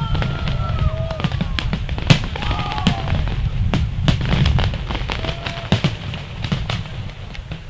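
Fireworks exploding overhead: a rapid, irregular series of sharp bangs and crackles over a steady low rumble.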